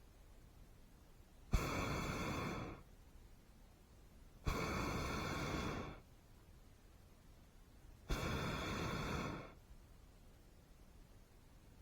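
Hot air balloon propane burner firing in three short blasts, each a loud rushing roar about a second and a half long that starts abruptly as the valve opens.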